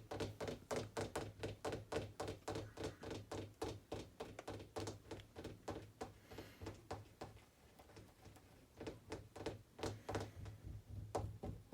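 Rapid series of light taps and thunks, several a second, over a steady low hum, easing off for a couple of seconds midway.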